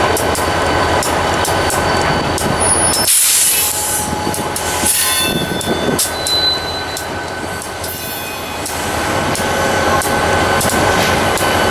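Freight train cars rolling past: a steady rumble of steel wheels with repeated clicks over rail joints and a faint thin wheel squeal. A burst of hiss comes about three seconds in and again about two seconds later.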